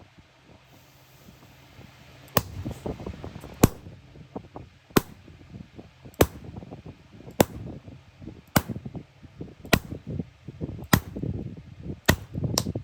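Hammer striking iron on an anvil in steady, sharp blows about once every second and a quarter, starting about two seconds in, with lighter clanks between the blows.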